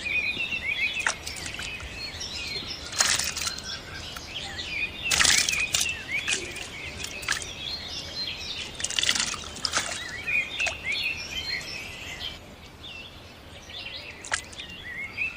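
Many small birds chirping, with a few short splashes of water in between, the loudest about five seconds in.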